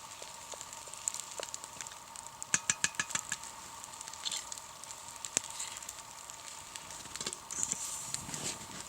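Campfire crackling with scattered sharp pops, including a quick run of pops about two and a half seconds in.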